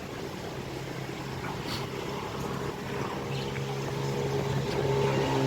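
A motor engine running at a steady pitch, getting steadily louder as it draws near.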